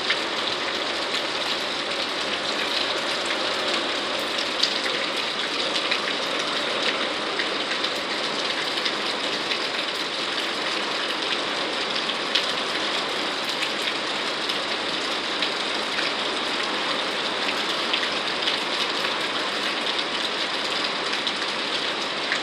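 Steady rain falling, an even hiss with scattered sharper ticks of drops striking a surface.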